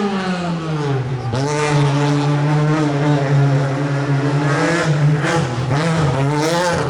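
Rally car engine at high revs. The pitch drops as the driver lifts off in the first second, then climbs and holds high, with brief dips at gear changes around five and six seconds in.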